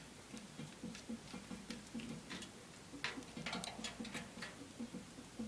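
Faint, irregular tapping and scratching: a bird trapped inside a kerosene heater, scrabbling against the metal.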